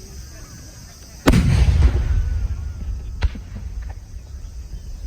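A firework shell bursting with a loud boom about a second in, its low rumble rolling on for about a second, then one sharper crack about two seconds later.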